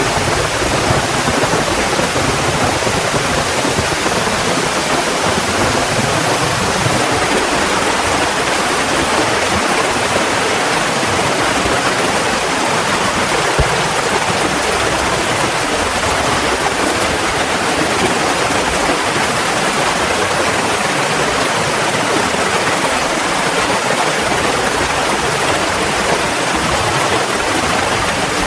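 Heavy rain pouring down steadily, with one brief click about halfway through.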